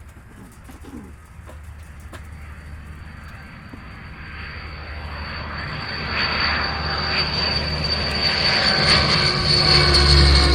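Twin Rolls-Royce Dart turboprop engines of a YS-11 aircraft, growing steadily louder as it approaches, with a high steady whine over a low hum.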